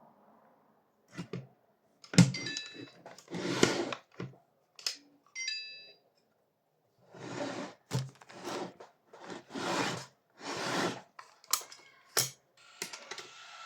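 A string of sharp clicks, knocks and short scraping bursts, like hands working on a small device, with two brief clusters of high electronic beeps, about two and a half seconds in and again near the middle.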